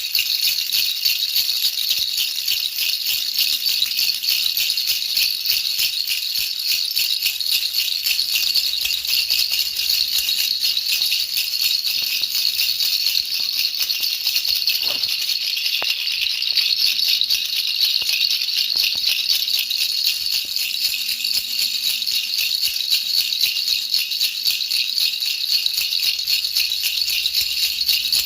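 Baby rattle shaken continuously as soothing noise for a baby's sleep: a steady, fast, high-pitched rattling that never lets up.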